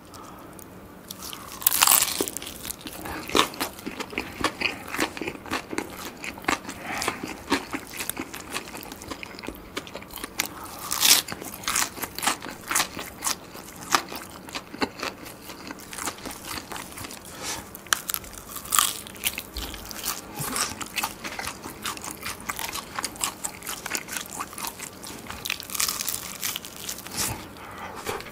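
Close-miked biting and chewing of crispy Korean market-style fried chicken: the batter crunches and crackles, with loud bites about 2, 11 and 19 seconds in and a steady run of chewing crunches between.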